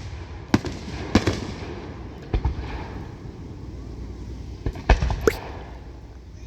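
Aerial fireworks bursting: about half a dozen sharp bangs at uneven intervals, two in quick succession past the middle, over a low background rumble.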